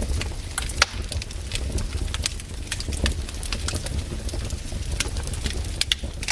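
Wood campfire crackling, with irregular sharp pops and snaps over a steady low rumble, the loudest pop coming about a second in.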